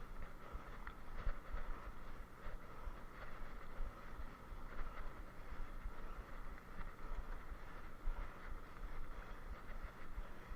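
Wind buffeting the microphone in irregular low rumbles over a steady hiss of movement noise.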